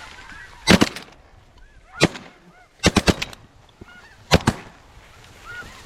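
A volley of shotgun shots from several hunters, about nine blasts in four quick clusters, fired at decoying snow geese. Snow goose honks carry on faintly between the shots.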